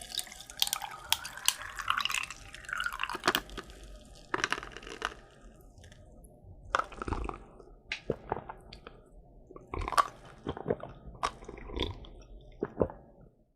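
Crisp croffle being bitten and chewed at close range: a run of crackly crunches at first, then single sharp crunches and wet chewing sounds every second or so.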